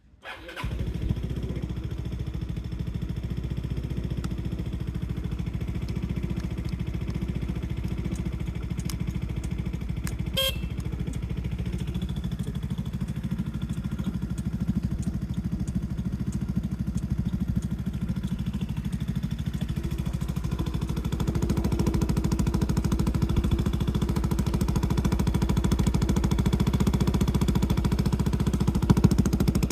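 Yamaha Majesty 125 scooter's single-cylinder four-stroke engine starting within the first second and running steadily at idle, getting a little louder about twenty seconds in.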